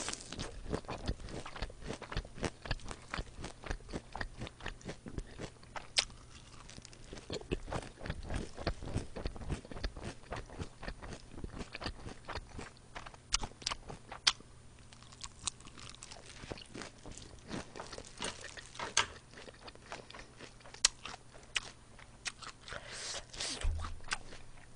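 Close-miked crunching and chewing of fresh lettuce salad leaves: a long run of crisp, quick crunches with short pauses between mouthfuls.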